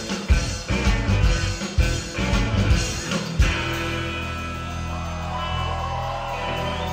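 Live rock band playing: drums and guitars drive on for about three and a half seconds, then the beat stops and a held chord rings on to the end.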